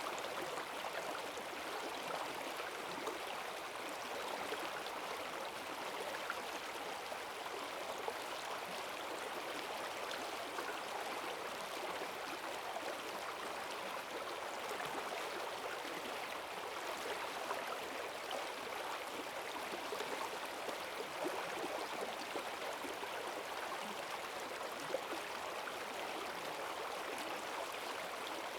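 Rain-swollen forest stream rushing and gurgling in a strong current, a steady, unbroken sound of running water.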